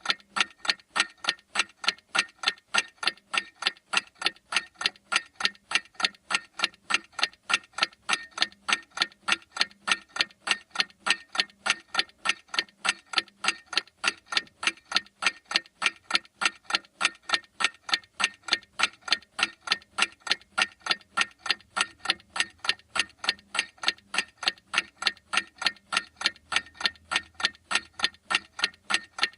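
Clock ticking in a fast, even rhythm, about three sharp ticks a second.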